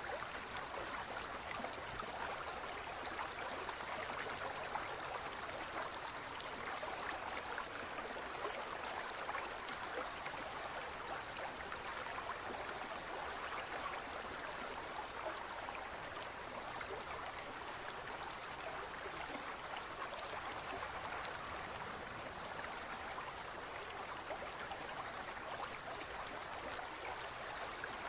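Running water flowing steadily, like a small stream.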